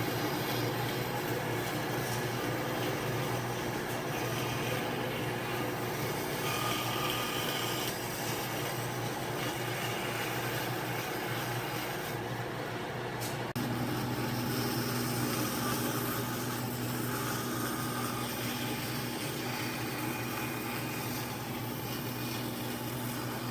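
Steady mechanical hum of running machinery, changing abruptly about halfway through, where it gets a little louder and a new low tone comes in.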